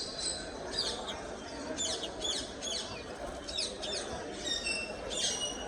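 Many small cage birds chirping at once, short sharp chirps overlapping several times a second, over a steady murmur of people talking in the hall.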